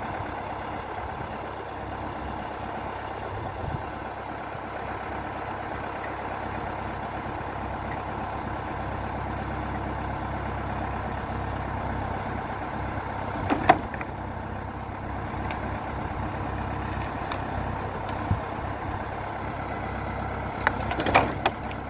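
Valmet 705 tractor's diesel engine running steadily under light working load, with a few sharp metallic knocks about two-thirds of the way in and again near the end.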